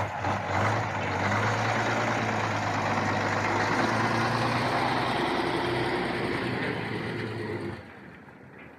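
Truck engine running steadily with a low hum, then cutting off abruptly about eight seconds in.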